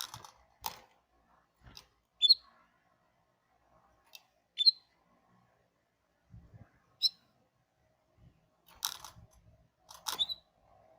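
Domestic canary giving short single chirps every couple of seconds rather than full song, with scattered small clicks and rustling between them.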